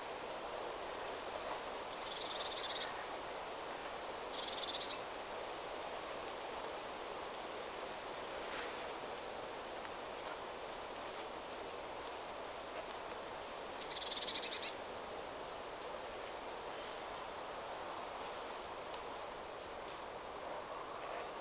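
Wind rustling through forest trees as a steady hiss, with small birds giving short, very high chirps scattered throughout. A few longer, buzzier calls come about two, four and a half and fourteen seconds in.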